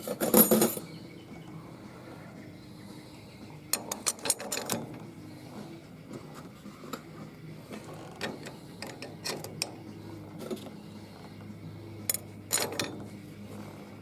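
Transmission clutch plates, the friction discs and steel plates of a 700R4 clutch pack, clinking and scraping against each other and the drum as they are stacked in one by one. The sound comes as scattered light metal clicks, with louder clusters just after the start, around four seconds in and near the end.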